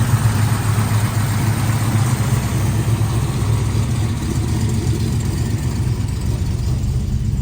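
1968 Mercury Cougar's V8 idling smoothly and steadily just after a cold start, the engine not yet up to temperature.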